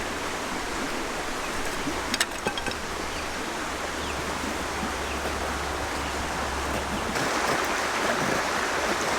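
Steady outdoor rushing noise, like running water, with a sharp click about two seconds in; the rushing grows louder about seven seconds in.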